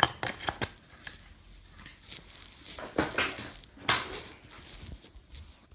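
Handling noise from plastic vacuum-cleaner parts. A few sharp clicks and knocks come first, as the camera is set down and parts are picked up, then two scraping, rubbing sounds about three and four seconds in as the Dyson DC07's filter casing is taken off and a replacement fitted.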